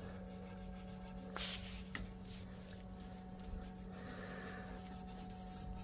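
Faint handling noises from parts being worked: two light clicks and a brief rub, over a steady low hum.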